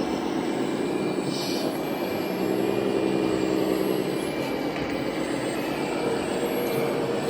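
Steady engine drone from an RC model vehicle's electronic sound module, a recorded diesel sound played through the model's loudspeaker.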